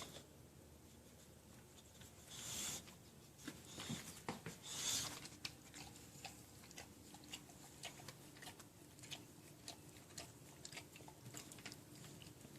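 Faint sounds of a dog: two short rustles, then a run of small, quick clicks.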